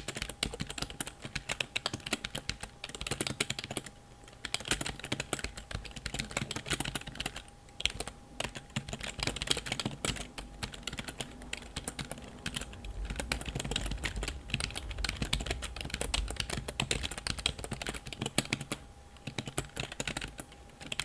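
Computer keyboard being typed on rapidly, a dense run of key clicks broken by a few short pauses.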